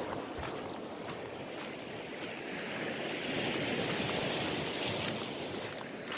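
Sea surf washing on the shore, a steady rush that swells a little in the middle and eases off again.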